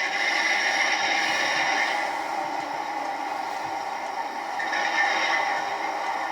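OO scale model locomotive running on the layout: a steady mechanical running sound that swells at the start and again about five seconds in.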